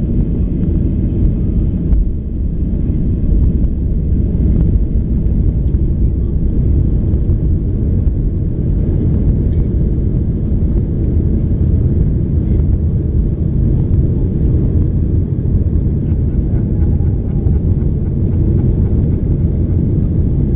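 Jet airliner's engines and rushing air heard from inside the passenger cabin during takeoff: a steady, loud low rumble.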